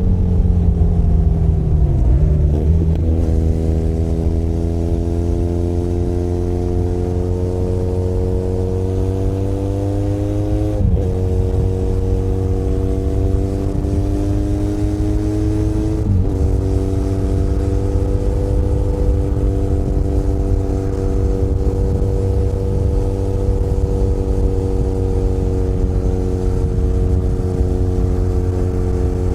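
Benelli Leoncino 500 Trail's parallel-twin engine pulling under way. Its pitch climbs slowly and drops sharply with a gear change about eleven seconds in and again about five seconds later, then it settles to a steady cruise. A low rush of wind and road noise runs under it.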